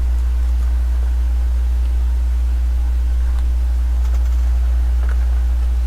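Steady low rumble with a faint constant hum, picked up while riding a tricycle along a trail. A few faint ticks.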